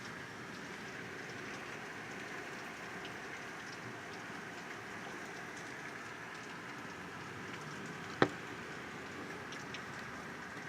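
Steady rain falling, with scattered drop ticks, and one sharp loud tap about eight seconds in.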